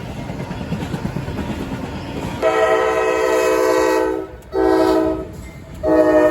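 The air horn of a CSX freight locomotive sounds a salute over the rumble of the approaching intermodal train: one long blast, a short blast, then another long blast near the end.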